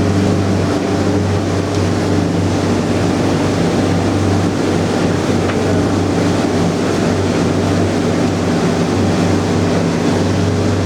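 Motorboat engine running steadily under way, a constant low hum under the rushing of water and wind.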